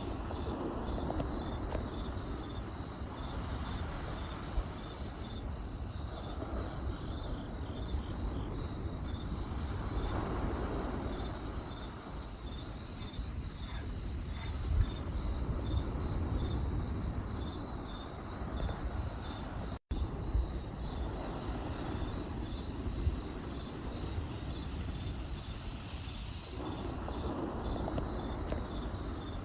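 Campfire burning with a low rush and occasional sharp crackles and pops, over a steady chorus of crickets chirping in a fast, even pulse at one high pitch. The sound drops out for a split second about two-thirds of the way through.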